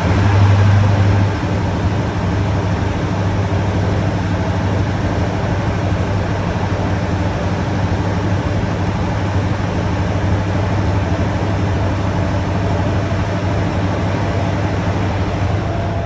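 MTU 16V4000 diesel engine of HST power car 43484 running under power, a steady low drone with even overtones, a little louder in the first second or so.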